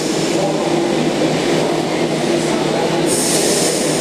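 OSCAR H-set electric intercity train standing at the platform, its equipment humming steadily, with a hiss of air starting about three seconds in.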